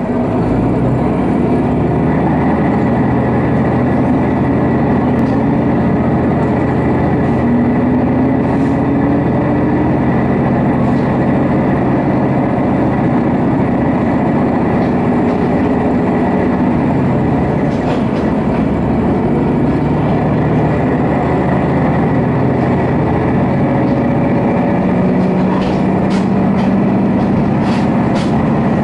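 Diesel railcar of the Nishikigawa Railway heard from inside the cabin as it runs along the line: a steady engine drone over the wheels' rumble on the rails. The engine note rises and shifts in pitch a few times, and there are a few light clicks near the end.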